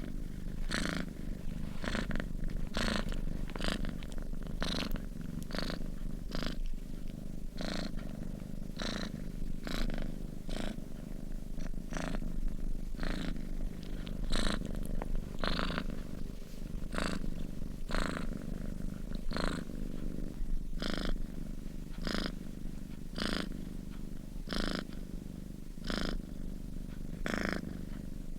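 Domestic cat purring steadily in its sleep: a continuous low purr with a short breathy hiss repeating a little more than once a second.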